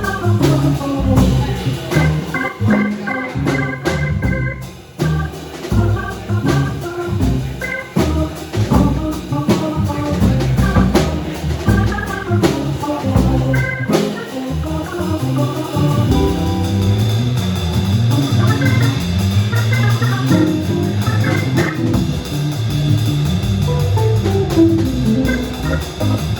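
Band playing an instrumental passage with organ, guitar and drums. Regular drum hits under quick keyboard and guitar notes through the first half, then held organ chords over a moving bass line in the second half.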